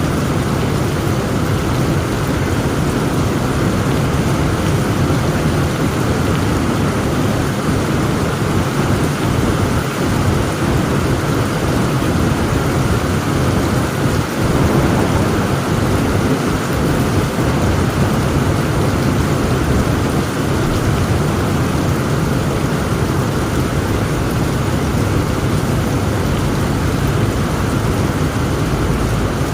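Heavy rain pouring steadily, with low thunder rumbling through it.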